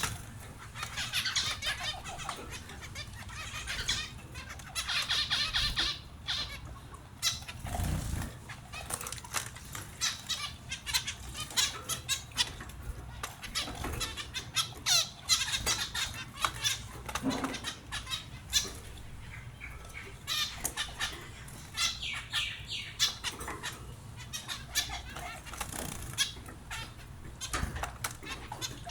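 Pet finches chirping in quick high trills, with wings fluttering and many small taps and clicks. Three low thumps stand out, about a third of the way in, past the middle, and near the end.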